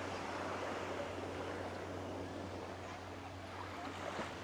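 Small, gentle waves washing onto a sandy beach: a steady, soft surf hiss.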